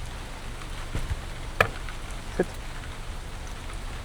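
Steady hiss of rainfall and river water, with two sharp taps about a second and a half and two and a half seconds in; the first tap is the louder.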